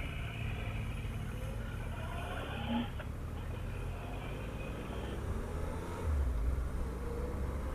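Triumph Tiger 1200 motorcycle's three-cylinder engine pulling away and accelerating. Its pitch rises, breaks off about three seconds in, then rises again, as when shifting up through the gears.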